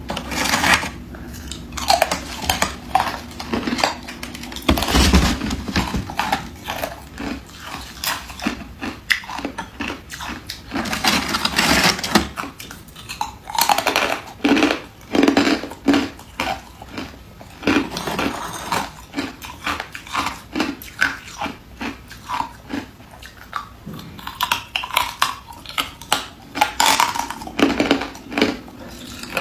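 A person biting and chewing ice, with loud crunches and crackles coming in irregular clusters throughout.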